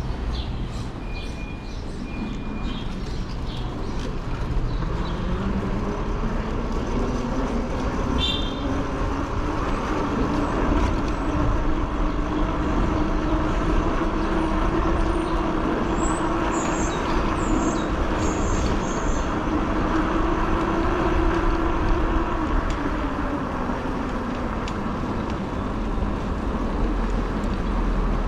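Fat-tire e-bike on the move: steady wind and tyre noise, with a whine that climbs in pitch over the first several seconds, holds, then drops away near the end.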